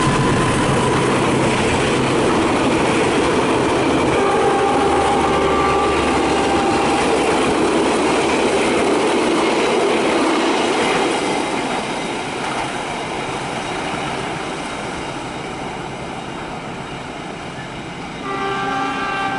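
A train passing at speed, its wheels clattering on the rails. Its horn sounds for a few seconds about four seconds in. The passing noise fades after about eleven seconds, and a horn starts again suddenly near the end.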